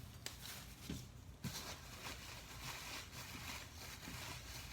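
Soft rustling and crinkling of a thin plastic bag being handled, with a few faint clicks.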